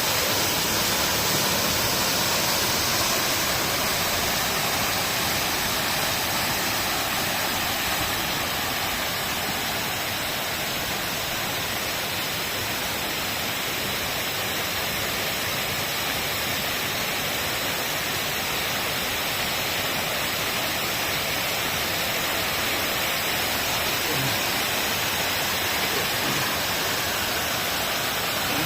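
A steady, even rushing noise, like falling water.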